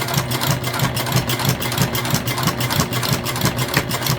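Flatbed sewing machine running steadily, its motor humming under a fast, even rhythm of needle strokes as it stitches a seam.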